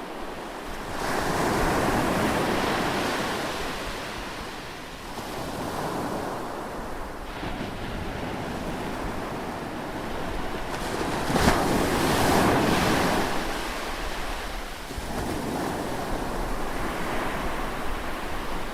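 Ocean surf breaking on a beach, the wash swelling and falling back in slow surges every few seconds. The loudest wave comes about eleven seconds in, with a sharp crash as it breaks.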